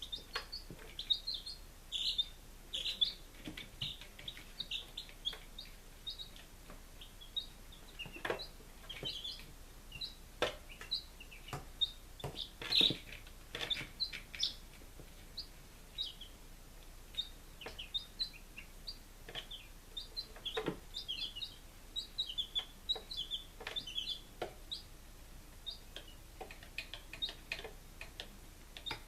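Five-day-old chicks peeping constantly in short high chirps, with a few brief louder knocks mixed in.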